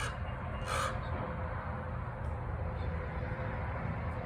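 A crow cawing twice in the first second, two short harsh calls, over a steady low outdoor rumble. The crow is complaining while cats eat its food.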